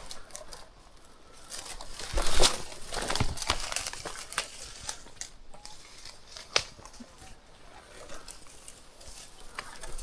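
Rustling and crackling of dry brush and ground cover being walked through and handled, with scattered sharp clicks; the loudest stretch comes about two to three and a half seconds in, and a single sharp click near six and a half seconds.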